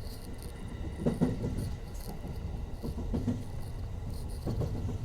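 Commuter electric train running along the line, heard from inside the carriage: a steady low rumble of wheels on rail, with a few heavier thuds about a second in, near the middle and near the end.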